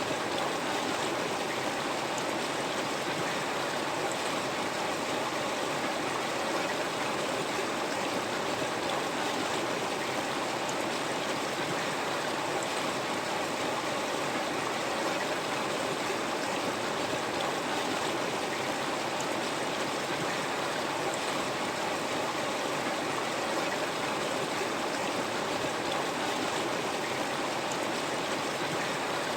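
River water flowing and rushing over stones, a steady, even rush of noise without breaks.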